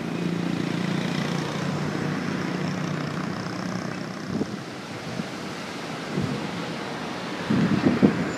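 Steady hiss of a heavy storm, with a low rumble during the first few seconds that fades, and a few irregular low buffets near the end.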